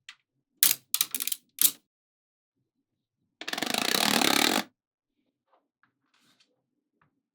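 Small magnetic balls snapping together: a few sharp clicks and a quick run of clicks, then a dense clatter of many balls shifting against each other for just over a second.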